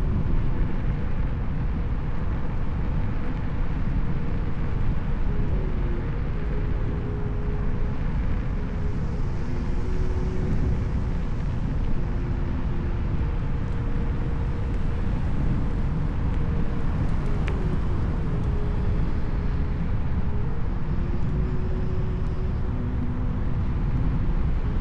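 Kugo Kirin U2 (KingSong 16S) electric unicycle on the move: steady low wind and road rumble on the microphone, with a faint hub-motor whine that steps up and down in pitch as the speed changes.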